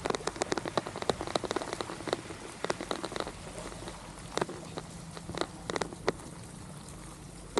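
Rain: irregular sharp taps of raindrops over a steady hiss of falling rain. The taps come thickly at first and thin out after about four seconds.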